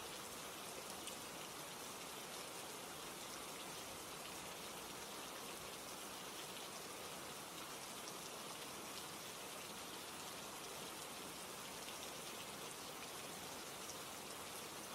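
Steady rain: an even hiss of falling rain with scattered faint drop ticks.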